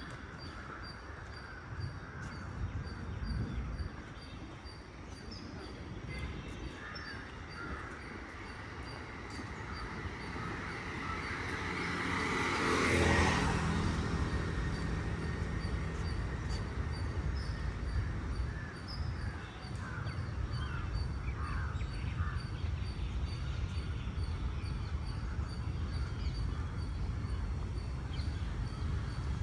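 Outdoor park ambience with crows cawing now and then over a steady low traffic rumble. Midway a vehicle passes close by, swelling up and fading away over about five seconds.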